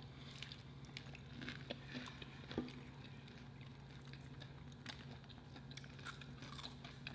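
Faint chewing and soft crunching of fried food, with scattered small clicks, over a low steady hum.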